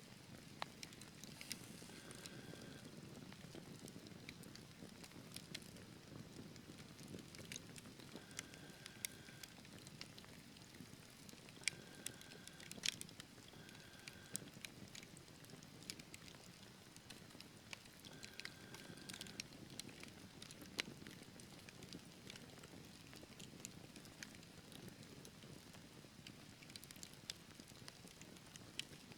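Wood fire burning in a fireplace: scattered sharp pops and snaps of crackling logs over a low, steady rumble of flames, with a few short, faint whistling tones.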